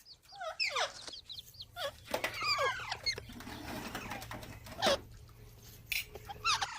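Pet green parrot making short chattering calls with bending pitch: a few in the first second, then a longer run of them around two to three seconds in. Two sharp clicks come near the end.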